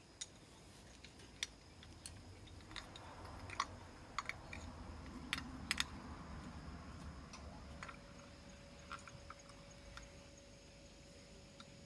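Scattered light clicks and clinks of hand tools and small metal parts being handled, busiest around the middle, over a soft rustling rumble. A faint steady high insect drone runs underneath.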